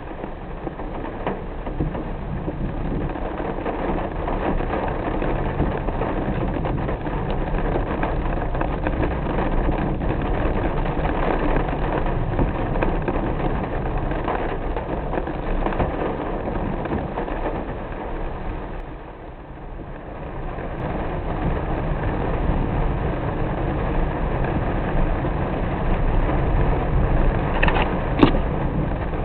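A car driving in the rain: a steady rushing of rain and wet road noise over a low engine and tyre rumble. The noise eases briefly about two-thirds of the way through, and a couple of short clicks sound near the end.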